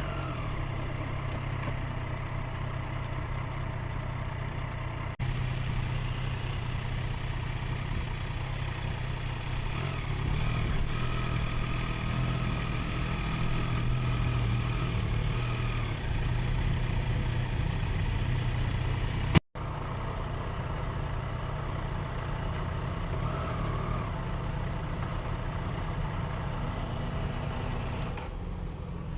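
Motorcycle engine running steadily at low revs, a low hum with a faint whine over it. The sound breaks off sharply twice, about five seconds in and again about two-thirds of the way through.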